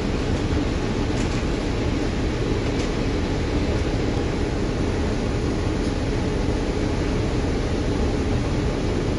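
Interior ambience of a city bus in motion: a steady engine and road rumble with faint rattles.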